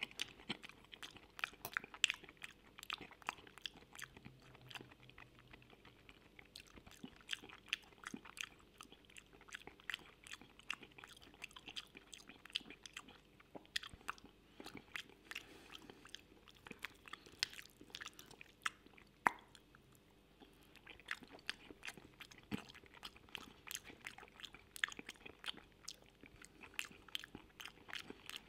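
Close-miked chewing of a mouthful of creamy mushroom pasta: many small, irregular mouth clicks and smacks, several a second.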